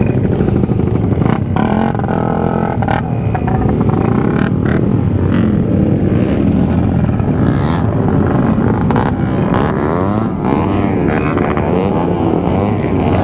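Motorcycle engine running hard at high revs, its pitch rising and falling a few times in the second half.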